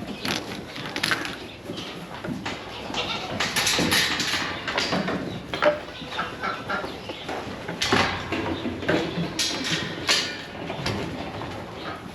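Goats and sheep at feeding time: irregular scuffling and knocking, with a few short animal calls.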